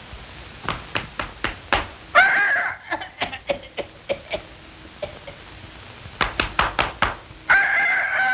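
Soundtrack sound effects: quick runs of sharp knocks, broken by a short pitched squawk-like call about two seconds in, and a longer held call starting near the end.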